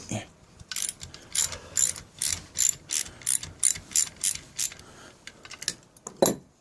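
Socket ratchet clicking in a quick run of strokes, about three clicks a second, as a bolt is undone, then a few slower clicks and one louder knock near the end.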